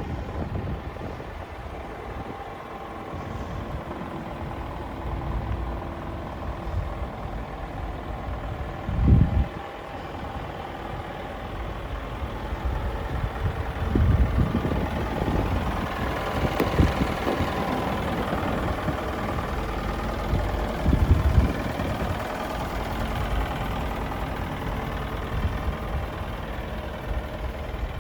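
Scania R410 LNG truck's five-cylinder gas engine running steadily, with a few short low thumps along the way and a brief swell in engine noise a little past halfway.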